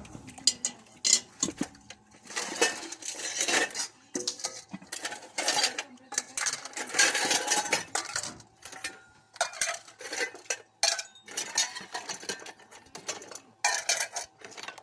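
Irregular clinking and clattering of hard objects, many short knocks and rattles in quick succession.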